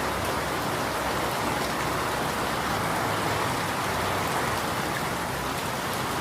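Steady, unbroken rain falling.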